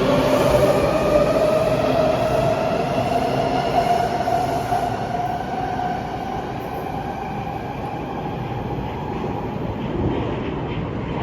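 Washington Metro train pulling away with a rising electric whine over wheel and rail noise, fading as it leaves.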